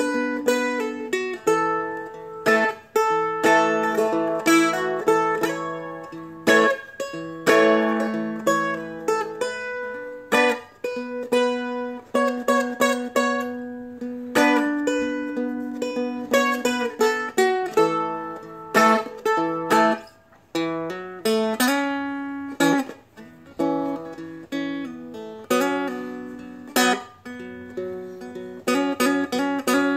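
Seagull Merlin, a small fretted dulcimer-style strumstick, fingerpicked in a slow melody over ringing lower strings.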